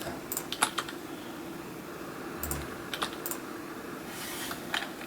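Scattered single clicks of a computer keyboard, a few key presses spread over several seconds, over a faint steady hum.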